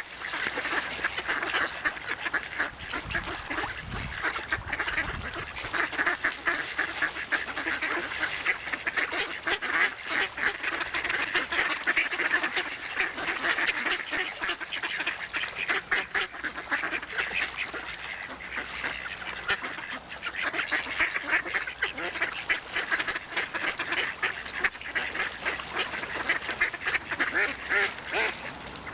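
A flock of ducks quacking continuously, many short calls overlapping with no break.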